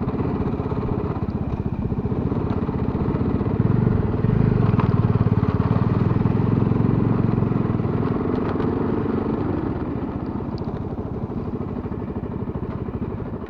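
Motorcycle engine running while riding, getting louder about four seconds in and easing off toward the end.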